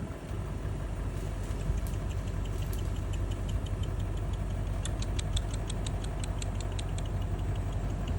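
A car engine idling steadily with a low hum. From about five seconds in, a quick run of even ticks, about six a second, lasts two seconds.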